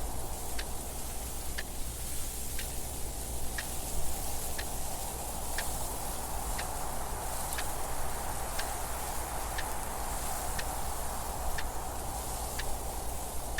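Clock ticking steadily, one tick a second, over a steady wind-like rushing noise with a low rumble.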